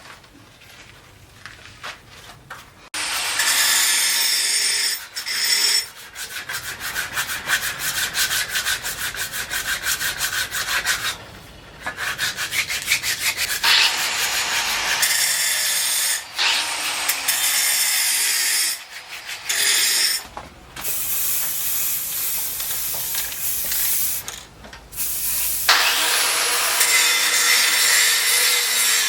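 Hand tool rasping back and forth in quick repeated strokes, like sawing or filing, starting about three seconds in and stopping briefly several times.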